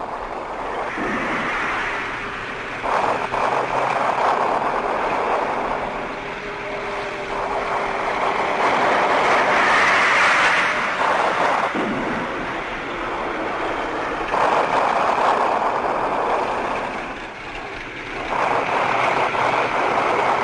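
Tanks on the move: engine and track noise that swells and fades in several waves.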